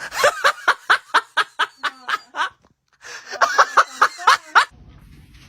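A person laughing hard in two bouts of quick, rapid pulses, with a short pause for breath in between.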